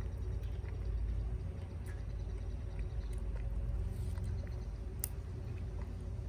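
Scattered light clicks and taps of eating from a mess tin, with one sharper click about five seconds in, over a steady low rumble.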